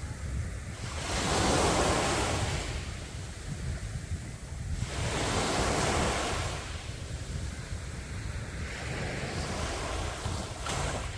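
Sea waves breaking on the beach in two surges, about a second in and about five seconds in, over a steady low wind rumble on the microphone.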